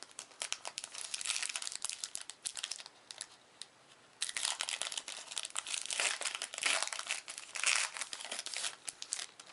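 Trading card booster-pack wrapper crinkling and tearing as the pack is opened, in two spells of rustling with a short pause about three seconds in.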